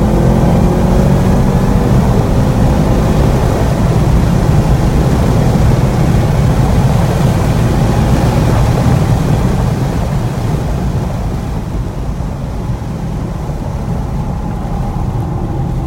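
Holden Commodore SS V's V8 engine heard from inside the cabin under hard acceleration on a race track, with road and wind roar. From about ten seconds in the sound drops as the car lifts off and brakes for the next corner.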